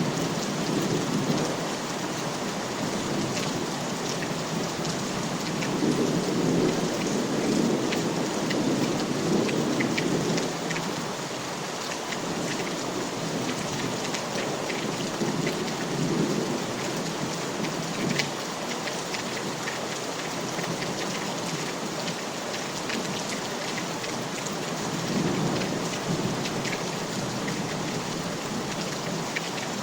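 Steady rain falling, with scattered drops ticking, and low rolls of thunder swelling and fading several times, the longest about six to ten seconds in.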